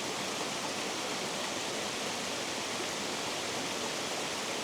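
Water rushing steadily over a spillway, an even, unbroken noise.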